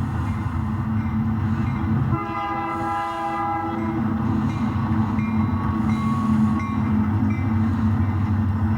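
Diesel locomotive sound of an HO scale BNSF GP35 model: one horn blast about two seconds in, lasting about a second and a half, over a steady low engine rumble.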